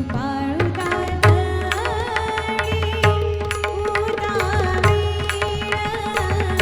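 Indian devotional music with tabla and pakhawaj drumming in frequent strokes, under a wavering, ornamented melody and a steady sustained drone.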